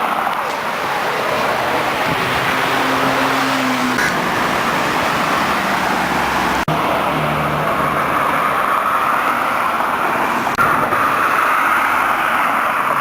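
Cars running along a street in traffic, a steady rush of engine and road noise with brief low engine tones.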